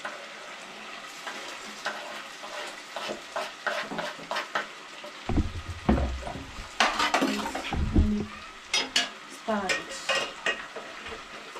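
A spoon stirring and scraping in a cooking pot of curry chicken, with the food sizzling and utensils clinking; a few dull thumps about six to eight seconds in.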